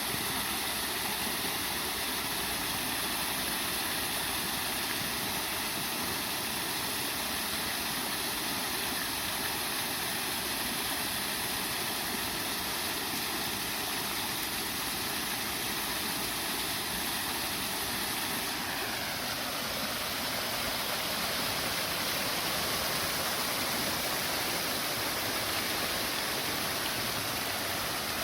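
Waterfall in a park: a steady rush of falling water, its tone shifting slightly a little past halfway.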